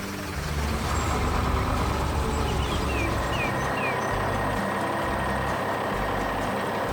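Truck engine sound effect running steadily, with a few short rising chirps about three seconds in.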